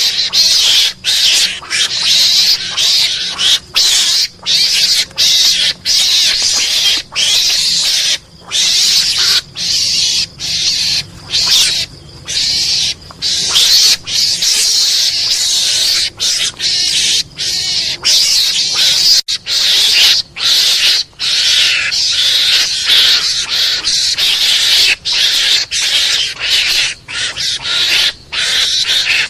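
Mongoose (garangan) calls used as a hunting lure: a rapid string of harsh, high-pitched chattering bursts broken by brief pauses.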